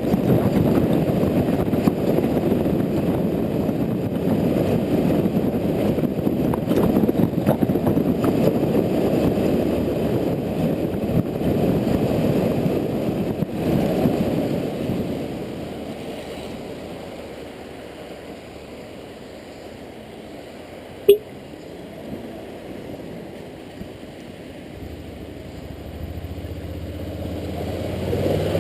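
Honda Integra NC750D motorcycle on the move on wet roads, with wind and road noise loud until about halfway through, then fading away as the bike slows to a near stop. One sharp click comes just past the middle, and a low steady engine hum follows near the end.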